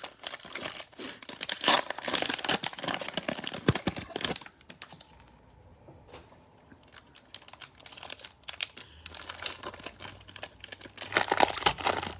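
Crinkling and tearing of the thin plastic wrapper of a Prizm football cello card pack being opened by hand, in two spells with a quieter few seconds of scattered ticks between them.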